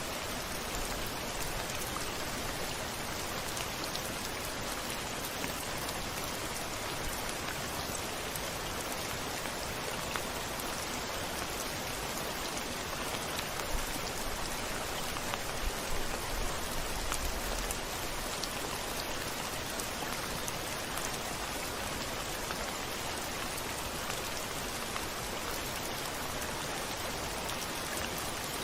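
Steady rain on a window, with individual drops ticking now and then. A brief low rumble of thunder comes about halfway through.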